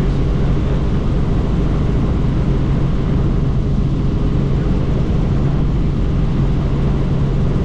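Helicopter in flight with its doors off: steady, loud rotor and engine noise with a constant low hum.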